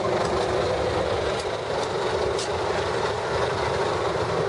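Steady whooshing of a car's climate-control fan blowing hot air, with the engine idling, heard inside the closed car cabin.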